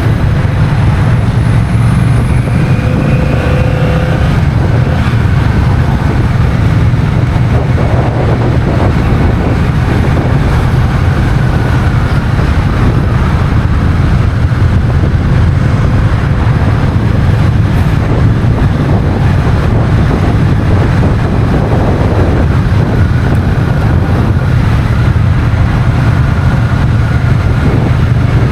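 Honda CMX1100 Rebel's 1084 cc parallel-twin engine running steadily while riding, with wind rushing over the camera microphone.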